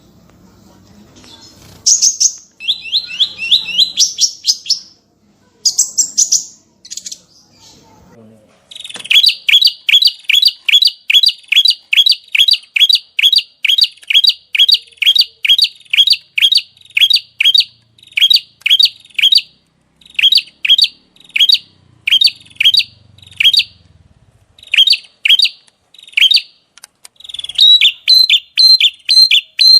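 Small songbird singing: a quick high trill, then a long run of sharp repeated downward-slurred notes, about three a second, which turns denser and faster near the end. This kind of "shot" (tembakan) song is what tutoring recordings use to teach cage birds new phrases.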